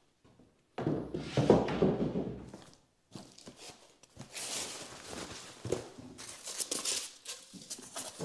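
Flat-pack cabinet parts being pulled from their cardboard box: a heavy thump and scrape about a second in, then crackling rustle of cardboard and plastic wrap with small knocks.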